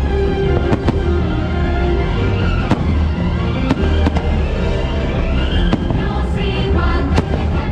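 Fireworks going off in sharp bangs every second or so, over loud show music played through speakers.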